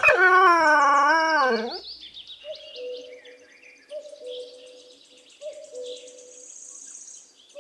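A donkey braying: one long, loud, wavering call that ends about two seconds in. Birds chirp faintly after it, with a short low tone repeating every second and a half or so.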